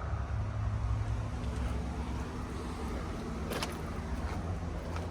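Steady low outdoor background rumble, with a couple of short sharp clicks about three and a half seconds in.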